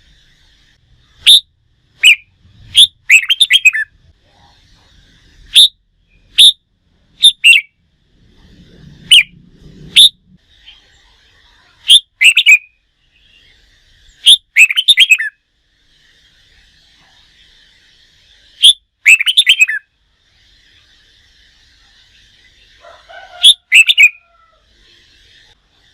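Red-whiskered bulbul giving loud, sharp, sweeping call notes, singly or in quick clusters every second or two, the excited calling that bulbul keepers provoke to train a wild-caught bird for singing contests. A faint steady chatter runs underneath.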